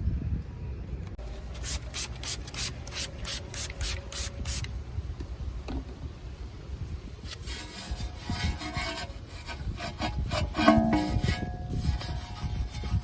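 Hand scrubbing on a car's body during a wash: a run of rhythmic rubbing strokes, about three a second. Near the end comes denser rubbing with a few short squeaks.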